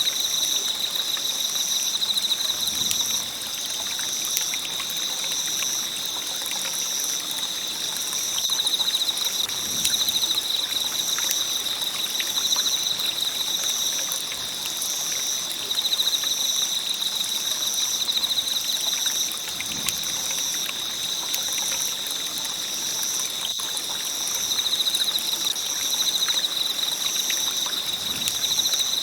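Wood fire burning with a steady stream of small crackles and pops, over a continuous high, pulsing trill.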